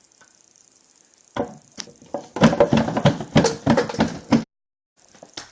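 A single knock, then about two seconds of rapid, irregular knocking and clattering that stops abruptly, with one more click near the end.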